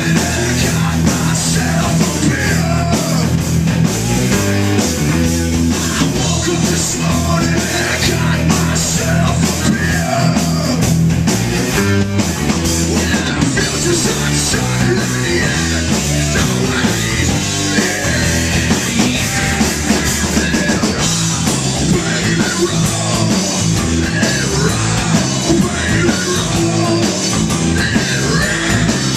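Loud heavy rock music with a drum kit, playing without a break.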